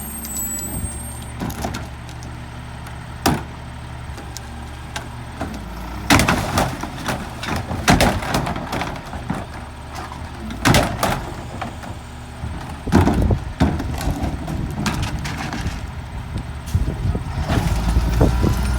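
Peterbilt garbage truck with a McNeilus rear-loader body idling, with a run of sharp bangs and clatters in the middle as trash is loaded into the rear hopper. Near the end the engine speeds up and gets louder.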